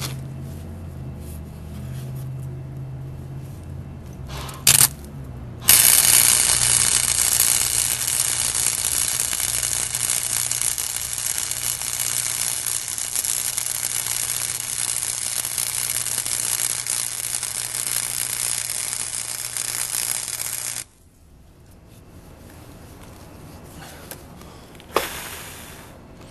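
Arc welder laying a weld pass on galvanized steel: a brief arc strike about four and a half seconds in, then about fifteen seconds of steady crackling and sizzling arc that stops abruptly. A low hum from the welder runs under it and stops when the arc does.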